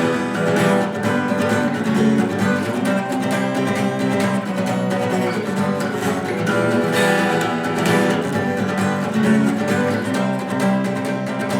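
Twelve-string acoustic guitar strummed in a steady rhythm, an instrumental passage with no singing.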